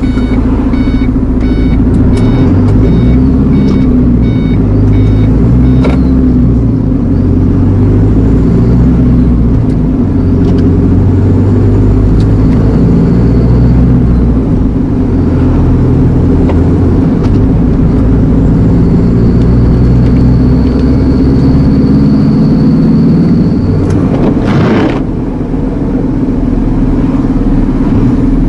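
Iveco Eurocargo lorry engine running, heard from inside the cab, its revs rising and falling as the truck creeps along in queuing traffic. An electronic beep repeats about twice a second through the first six seconds.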